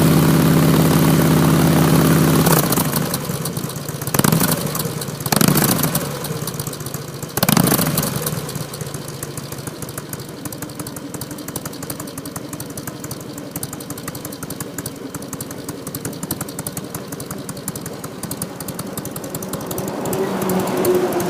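Motorcycle V-twin running through baloney-cut stock North American mufflers with the baffles punched out to 20 mm, breathing through an HSR42 carburettor. It holds raised revs for a couple of seconds, drops back, is given three short throttle blips, then settles to a steady idle with a slight rise near the end. It has a quiet but deep, bass-heavy exhaust note.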